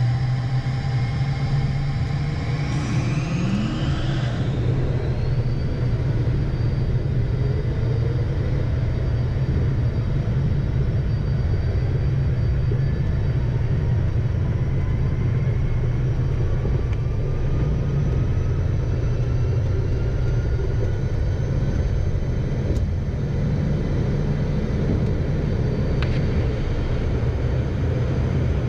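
Heard from inside the cockpit, the Beechcraft Premier I's twin turbofan engines spool up to takeoff power, their whine rising over the first few seconds. A steady heavy rumble and engine whine follow as the jet accelerates and climbs away.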